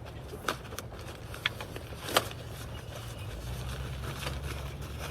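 Light rain pattering on the fabric roof of a tent, with a few sharp clicks and knocks from gear being handled, over a low steady rumble.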